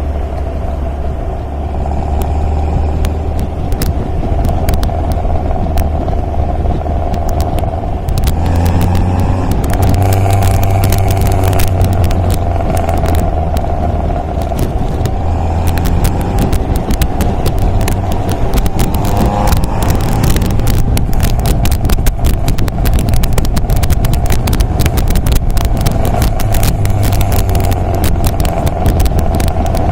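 MG MGA roadster's four-cylinder engine running while the car is driven, steady, with a step up in level about a third of the way in and shifts in pitch as the engine speed changes.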